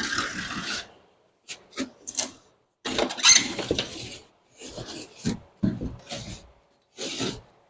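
A series of about seven short scraping and rubbing strokes, with quiet gaps between them; the loudest comes about three seconds in.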